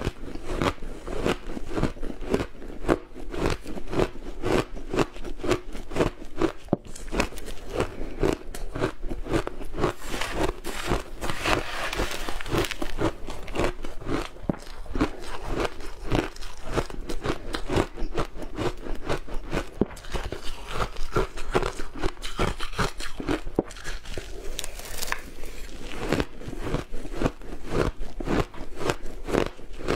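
Close-miked eating: rapid, continuous crunching as something hard and brittle is bitten and chewed, many sharp cracks a second.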